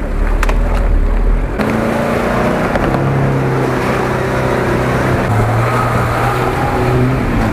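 Engines of off-road 4x4s running under load as they crawl through deep mud, a steady engine note that changes abruptly about a second and a half in and steps down in pitch past five seconds.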